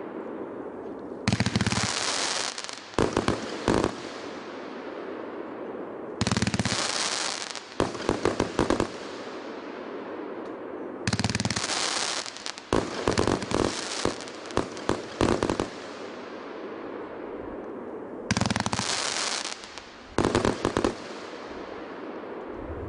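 A 100-shot consumer fireworks cake (multi-shot battery) firing salvos: four groups of deep thumps and rapid sharp bangs, with quieter gaps between the groups.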